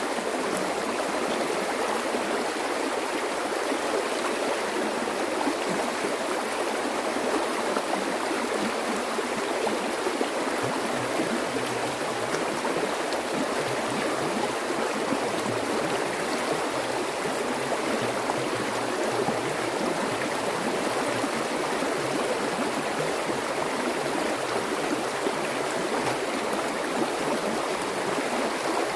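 Flowing water, a stream running steadily without a break.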